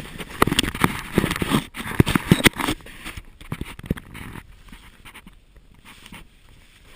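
Irregular knocks, clicks and scraping, busy for the first two and a half seconds, then dying down to faint rustling.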